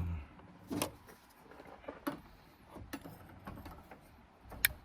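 Scattered clicks and knocks of a Coleman camp grill stove being handled and set up, with a sharp click near the end.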